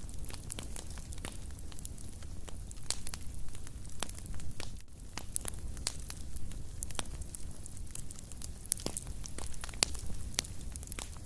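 Wood fire in a fireplace crackling, with irregular sharp pops and snaps several times a second over a low steady rumble of the flames. One louder pop comes near the end.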